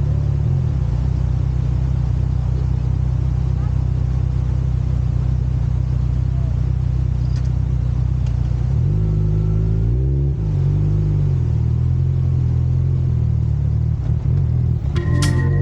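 Motorcycle engine running steadily while riding, its pitch dipping and rising again about two-thirds of the way through.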